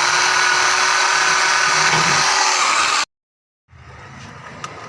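An electric power tool runs steadily at one speed for about three seconds, then cuts off suddenly. Quieter workshop noise with a few light clicks follows.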